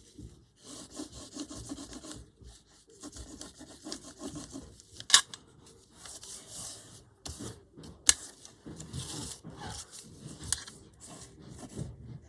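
Irregular rubbing and scraping strokes, each up to a couple of seconds long with short pauses between, and two sharp knocks partway through.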